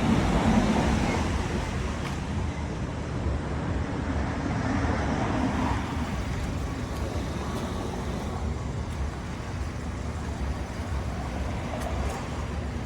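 Road traffic noise: a steady wash of passing vehicles' engines and tyres with a low rumble, swelling and fading as vehicles go by.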